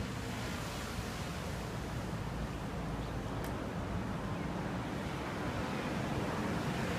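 Steady wash of sea waves with wind buffeting the microphone, and a low steady rumble underneath.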